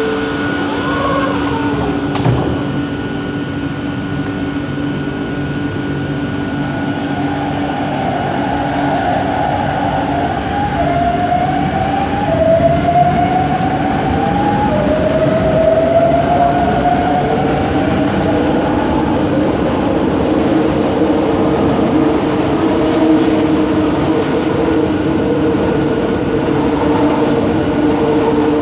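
Bombardier Innovia ART 200 metro train running, its linear induction motor drive whining in a series of short rising tones that step upward one after another for about ten seconds as the train gathers speed. It then runs on with steady tones over the rumble of the car.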